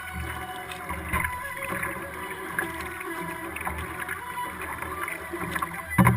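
Kayak paddling heard from a camera mounted on the hull: steady water noise with small splashes and drips, and one sharp, loud knock about six seconds in.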